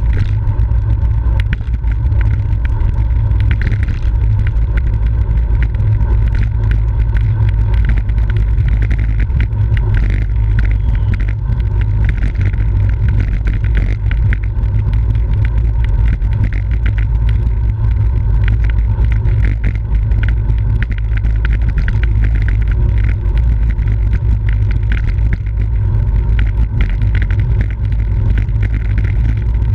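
Loud, steady wind buffeting on the microphone of a camera riding on a racing bicycle at speed, a low rumble that covers almost everything else.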